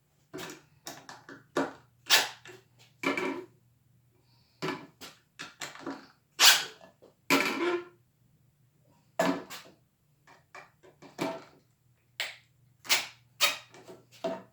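Irregular knocks and clatter of tools and hardware being handled and set down on a wooden work surface, about twenty separate short hits, over a faint steady low hum.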